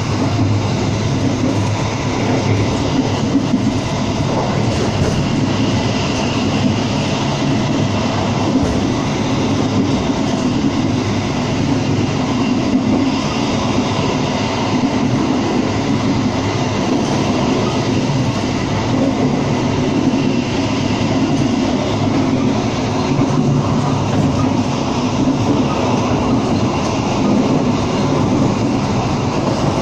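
Passenger train running at speed, heard from inside the coach: the steady running noise of wheels on the rails and the carriage moving over the track.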